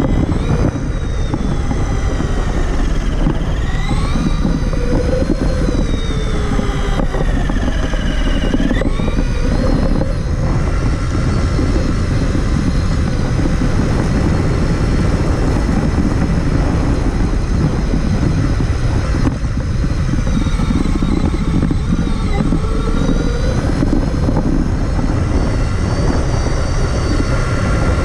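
Traxxas Summit RC truck driving, heard from a camera mounted on it: the electric motor and gears whine, rising and falling in pitch with the throttle, over a steady low rumble.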